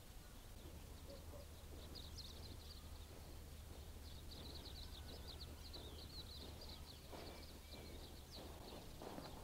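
Faint songbird chirping in quick high notes, starting about two seconds in. Near the end come soft scrapes of shoes pushing loose, dry soil.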